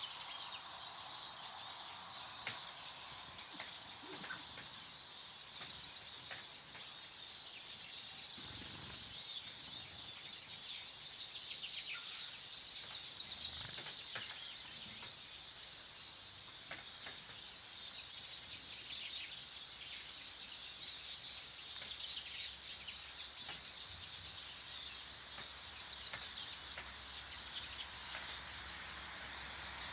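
Many small garden birds chirping and twittering at once at a bird table, short high calls overlapping without a break, with a few sharp taps or clicks among them.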